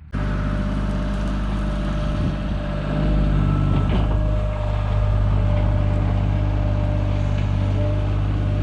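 Diesel engine of a loader running steadily at working speed, getting a little louder about three seconds in as it takes on load while digging.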